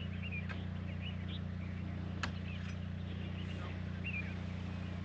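Small birds chirping in short scattered calls over a steady low hum, with a single sharp click a little over two seconds in.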